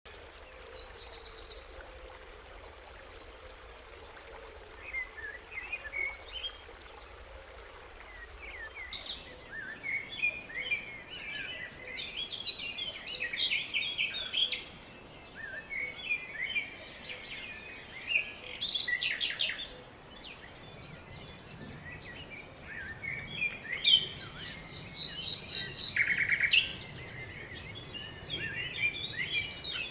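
Wild birds singing and calling, many short chirps and trills, busiest from about a third of the way in, with a loud fast trill near the end.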